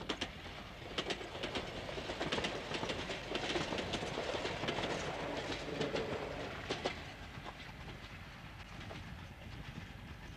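Electric railcars of the Echigo Kotsu Tochio Line, a 762 mm narrow-gauge line, passing close by: a rumble with sharp clacks of the wheels over the rail joints, loudest in the middle, then fading as the train moves away.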